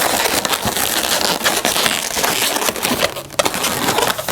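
Inflated latex 260 modelling balloons rubbing, squeaking and crackling against each other as one is twisted and tied into another; a dense run of quick crackles with a brief pause a little after three seconds.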